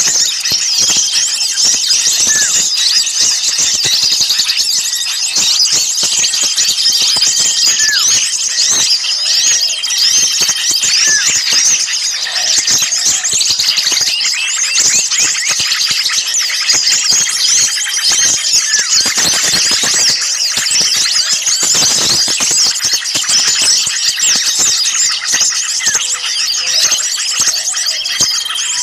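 Dense, noisy chorus of many small songbirds chattering and calling all at once, with rapid high chirps and a short held whistle that recurs every few seconds. It is an agitated, 'ribut' (noisy) flock recording of the kind played as a lure to draw small birds in.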